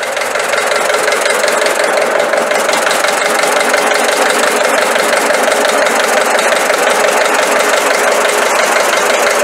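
Old tractor's engine running steadily as the tractor drives up, chugging evenly with a fast run of firing pulses.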